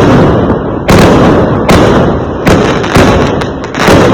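Fireworks exploding in quick succession: about six loud bangs, each followed by a rumbling tail that fades before the next one hits.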